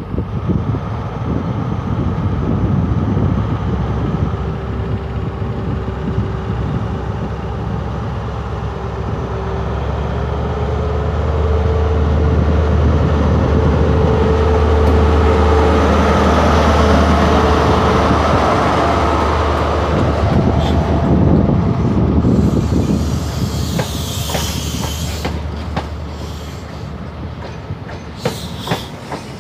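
Diesel passenger train running through the station, its engine drone and wheel noise building to a peak about halfway and then fading away. A few sharp wheel clicks come near the end.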